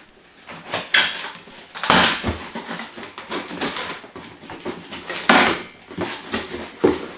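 Shipping package being opened by hand: cardboard and packing material scraping, rustling and tearing in irregular bursts, loudest about two and five seconds in.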